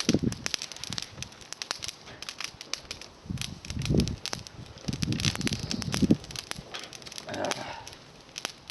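Small campfire of climbing-rose twigs crackling, with many sharp pops and snaps, and a few low, soft rustling swells in between.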